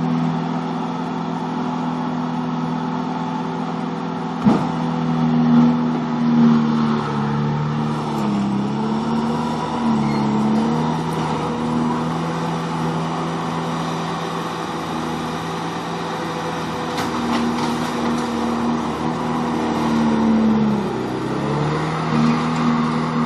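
Bobcat T250 compact track loader's diesel engine running at high revs, its note sagging briefly three times as it takes load while the grapple works logs. A single sharp knock about four and a half seconds in.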